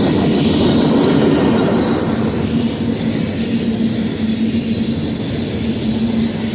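BNSF freight train rolling past, steel wheels running on the rails with a continuous rumble and a steady low tone underneath.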